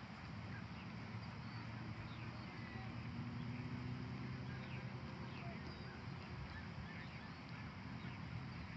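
Outdoor background: a steady low rumble with scattered short bird chirps and a fast, even high ticking like insects.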